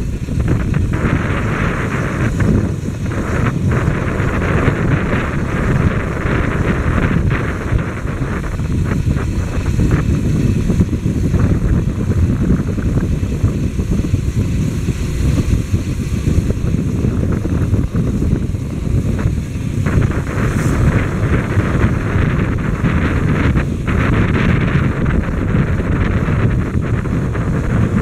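Wind buffeting the microphone of a moving motorcycle, a steady, loud, rumbling rush with the bike's running noise underneath.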